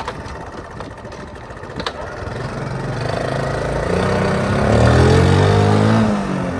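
Honda C70's small four-stroke single-cylinder engine revving up. Its note grows louder and rises in pitch over the last few seconds, then drops near the end.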